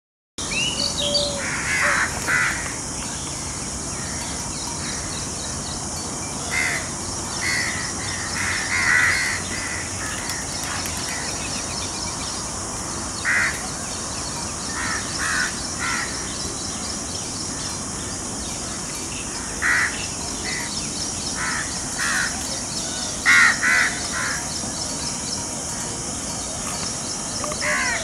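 Birds calling: short harsh calls, often two or three close together, come at irregular intervals over a steady high-pitched chorus in the background.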